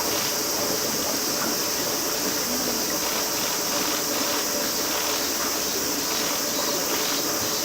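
Steady high-pitched hiss that holds evenly throughout.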